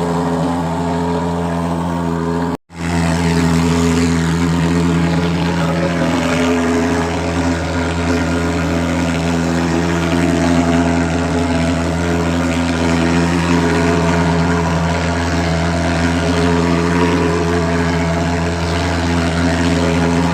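Thermal fogging machine for mosquito control running steadily with a loud, even drone, cutting out for a moment about two and a half seconds in.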